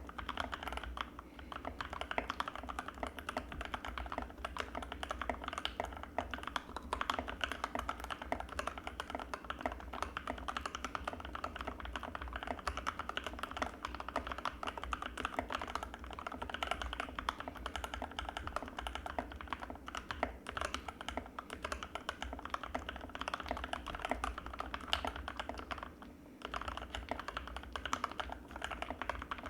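Fast, continuous typing on an Anne Pro 2 mechanical keyboard with linear Gateron Red switches: a dense run of keystroke clacks, with a brief pause about 26 seconds in.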